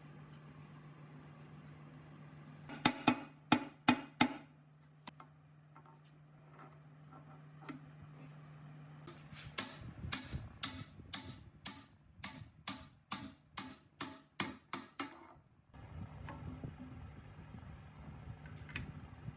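A steady low hum, with a quick cluster of about five sharp knocks about three seconds in, then a run of about fifteen evenly spaced sharp knocks, roughly two and a half a second, ending about four seconds before the end.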